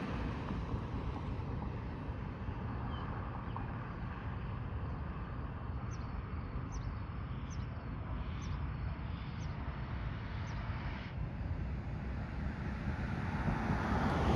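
Low rumble of two EMD GP-series diesel locomotives with wind on the microphone, growing louder near the end as they come closer. A run of short high chirps, about one a second, sounds midway through.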